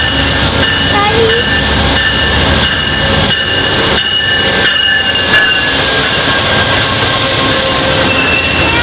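Amtrak passenger train pulling into a station, a loud steady rumble with a high-pitched squeal as it slows.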